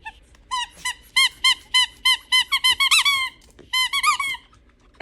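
Squeaky toy ball squeaking over and over as a small dog chews it, about three sharp squeaks a second, with a short pause before a last few.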